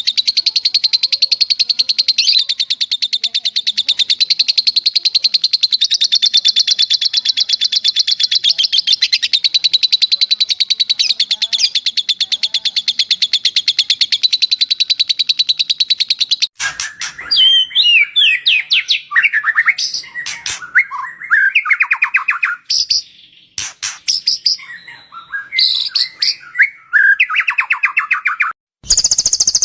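Recorded songbird song from a bird-song training track. A long, very fast buzzing trill runs for about the first half, then breaks into varied whistled phrases with short pauses, and a high trill starts again near the end.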